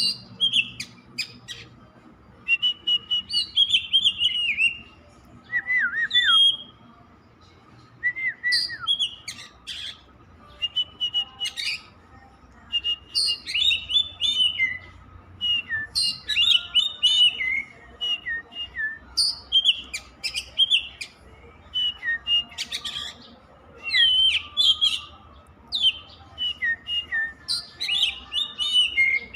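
Oriental magpie-robin (kacer) singing on and on: quick, varied phrases of clear whistles and chatter separated by short pauses, including a couple of falling whistles.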